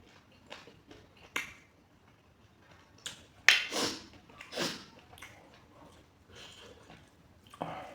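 A person eating close to the microphone: a string of sharp bites and chewing smacks at uneven intervals, the loudest about three and a half seconds in.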